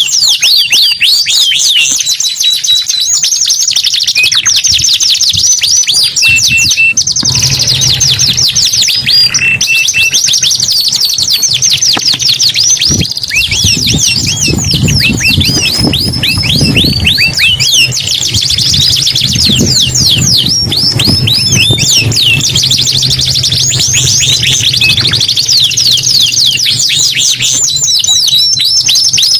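Domestic canary singing continuously in long, fast trills and rolls of high sweeping notes. A low hum runs underneath through the middle part.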